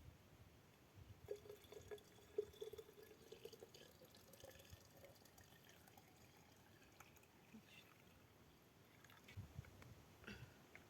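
Faint sound of syrup being poured into a jar, a thin steady tone that rises slowly in pitch for a few seconds as it fills, followed by a few small clinks and knocks.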